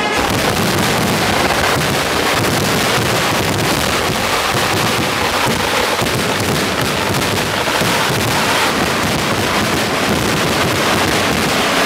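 Fireworks barrage going off overhead: a dense, unbroken run of bangs and crackles in quick succession.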